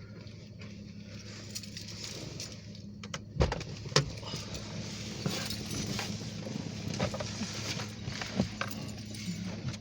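Steady low vehicle hum with a run of sharp clicks, knocks and rattles, the loudest about three and a half and four seconds in.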